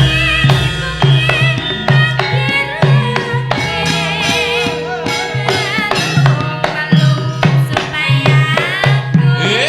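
Javanese gamelan music with a steady, rhythmic hand-drum (kendang) pattern and metallic percussion, accompanying the limbukan interlude of a wayang kulit performance.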